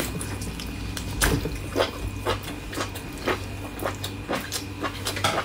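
Wet chewing, slurping and lip-smacking of a mouthful of spicy beef tripe, with short moist clicks about every half second.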